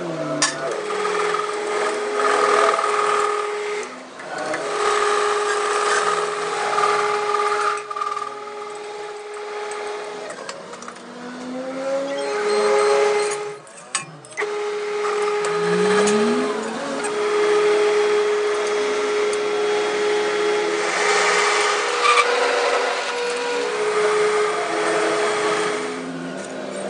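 Motor-driven workshop machine running with a steady hum and a hiss of metalworking noise. It stops and starts again several times, its pitch rising each time it spins back up.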